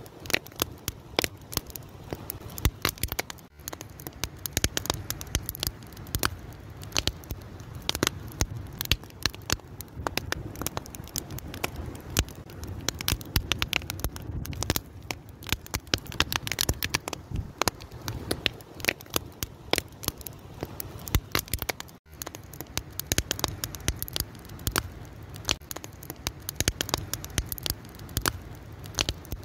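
Fire crackling: dense, irregular pops and snaps over a steady low rush of flame. It cuts out for an instant twice.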